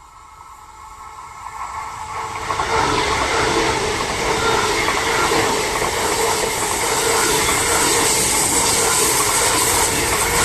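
A train approaching and passing on the track. The noise of wheels on rail grows louder over the first two and a half seconds, then stays as a steady loud rush.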